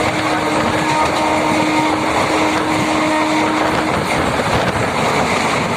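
Steady running noise of a moving MEMU train heard from inside the coach. A steady low tone sounds over it for the first four seconds or so.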